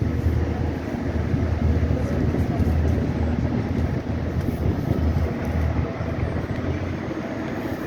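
Train noise: a steady low rumble with no distinct knocks or horn.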